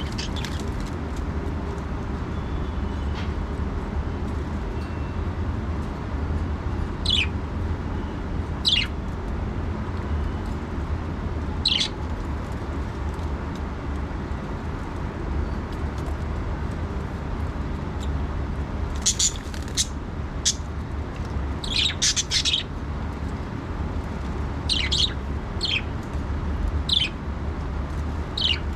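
Budgerigars chirping in short, sharp calls: a few single chirps at first, then quick clusters of chirps in the second half, over a steady low hum.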